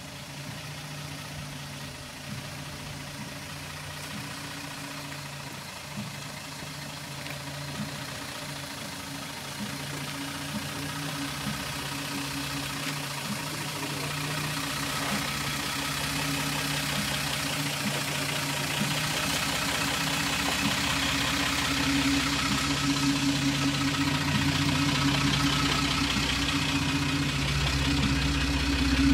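Engine of a black Mercedes hearse running at a crawl, close by, steadily growing louder as the car draws up alongside.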